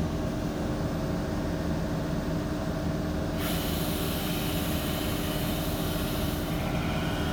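TY23VSM mobile wheel lathe running steadily, spinning an alloy wheel at 800 RPM during a light 0.1 mm cut at 40% feed, with an even hum. About three and a half seconds in, a steady high hiss joins it.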